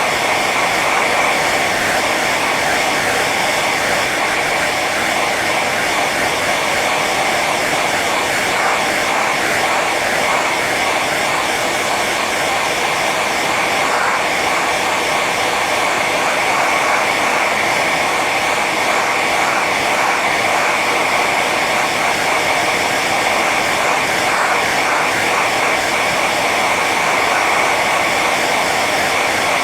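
Hair dryer running steadily on its high setting, an even rushing blow of air with a faint whine.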